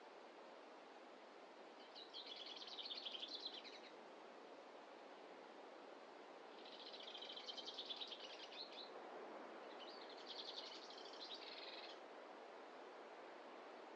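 A bird sings three fast, buzzy trilled phrases, about two seconds each, over a faint steady background hiss of forest ambience.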